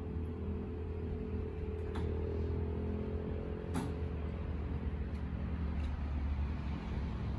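Electric commuter train standing at a platform with its doors open, its onboard equipment giving a steady low hum. A faint held tone fades out about four seconds in, and there are two sharp clicks, about two seconds in and just before four seconds.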